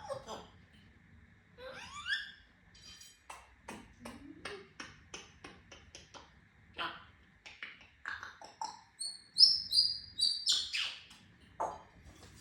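African grey parrot vocalising: a rising gliding call, then a long run of short clicks, then a quick series of high, loud whistled notes about nine seconds in.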